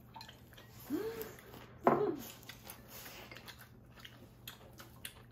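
People chewing food at a table, with light clicks of chopsticks and bowls. Two brief hummed vocal sounds come about one and two seconds in.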